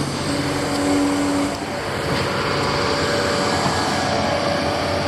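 Heavy construction machinery engine running steadily at close range, with a faint steady tone that shifts higher about a second and a half in.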